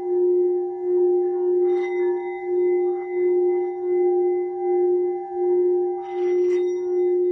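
Singing bowl being played rim-around, a single steady sustained tone with higher overtones that swells and fades about once a second as it is circled.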